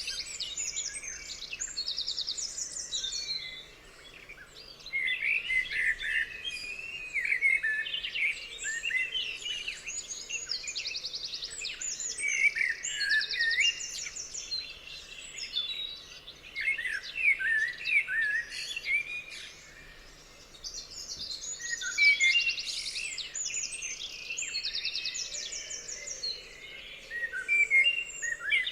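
Several songbirds singing at once: overlapping chirps, quick whistled sweeps and fast high trills, coming in busy bursts with a couple of short lulls.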